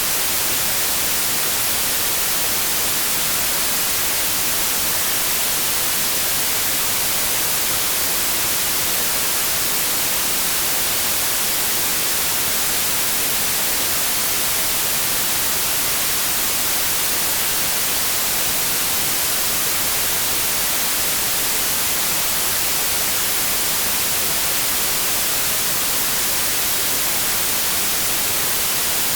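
Steady white noise: an even, unchanging hiss like radio static, strongest in the high range.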